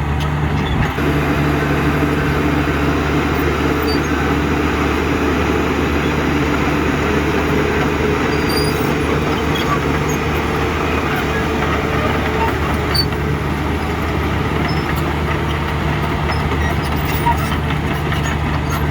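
Heavy diesel engine of construction machinery running steadily at an even pitch, with no revving or pauses.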